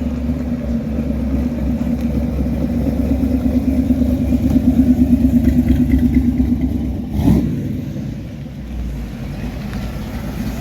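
A car engine running close by, its steady low note growing louder toward the middle. About seven seconds in there is one sharp knock, and after it the engine is quieter.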